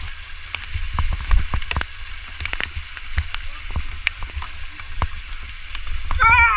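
Irregular crackling clicks over an uneven low rumble, like wind buffeting and handling noise on the camera microphone; a voice briefly near the end.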